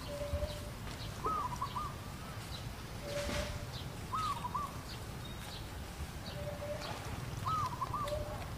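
Birds calling: the same short looping call phrase repeats about every three seconds, with a flat lower note and faint high chirps in between, over a low steady rumble.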